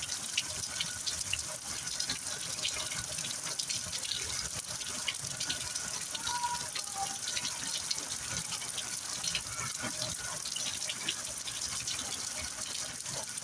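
Heavy rain falling steadily, with many close drop splashes ticking through the constant hiss of the downpour.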